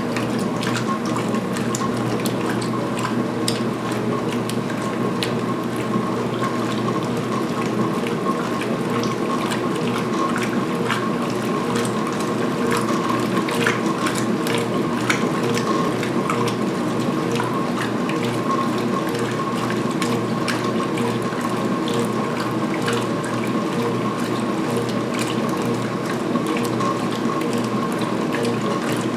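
2016 Speed Queen belt-drive top-load washer in high-speed agitation during the rinse. A steady motor and transmission hum runs under water sloshing, with scattered clicks and knocks as the towels are churned.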